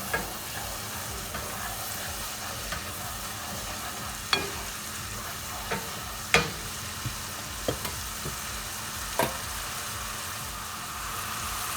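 Curry masala paste with ginger-garlic and spices sizzling steadily in a pan while it is stirred, the spoon knocking sharply against the pan a few times, the loudest knocks about 4, 6 and 9 seconds in.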